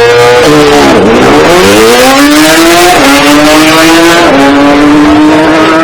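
Drag race car's engine at full throttle, pitch climbing and dropping with gear changes about three and four and a half seconds in.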